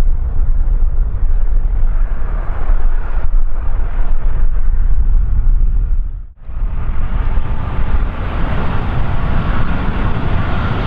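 Strong wind buffeting the microphone: a loud, gusting low rumble. About six seconds in the sound drops out for an instant, then comes back brighter and hissier.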